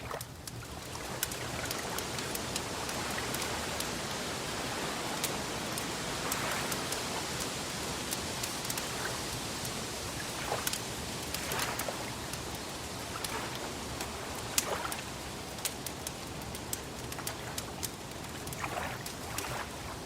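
Wood fire crackling, with scattered sharp pops and snaps over a steady hiss.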